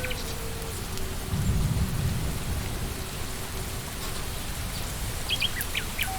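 Steady rain falling in a forest, with a brief low rumble of thunder about a second in. A few quick bird chirps come near the end.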